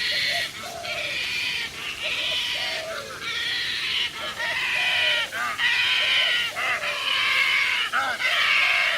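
A bird giving loud, harsh calls over and over, about one a second, each with a short falling note.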